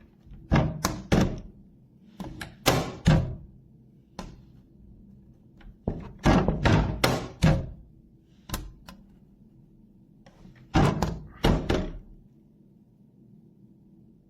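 Plastic cat flap knocking against its frame in short runs of two to four quick knocks, as the flap is pushed and swings back.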